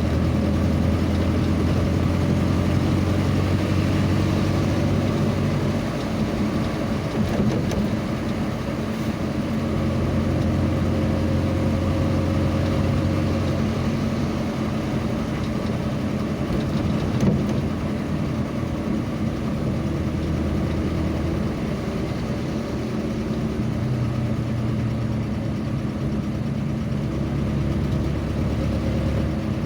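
Engine and road noise of a moving vehicle heard from inside, steady throughout, with the engine note dropping away and coming back a few times as the speed or gear changes.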